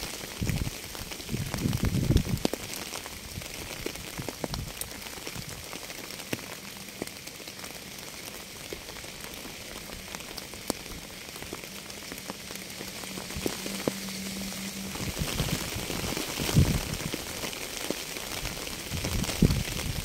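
Steady rain hissing, with scattered ticks of single drops. Deep rumbling swells come in the first couple of seconds and again near the end.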